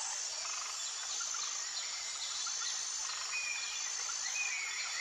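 Birds chirping and trilling over a steady outdoor background hiss.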